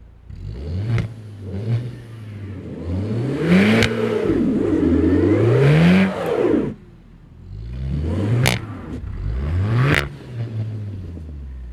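Skoda Octavia RS 230's turbocharged 2.0-litre four-cylinder petrol engine and exhaust revving repeatedly. The pitch rises and falls with each rev, a long hold around the middle. Sharp cracks come from the exhaust at several rev peaks.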